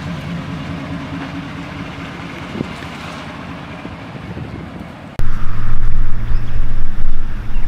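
Pickup truck engine running through a Flowmaster Super 40 Series Delta Flow muffler with a straight pipe in place of the resonator, a steady exhaust note slowly getting quieter. About five seconds in it cuts suddenly to a much louder, deeper exhaust rumble.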